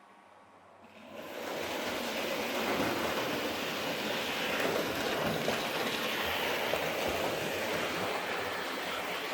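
Hornby Dublo three-rail model tank locomotive running along the track, its motor and wheels making a steady noisy whirr that comes in sharply about a second in as it draws close.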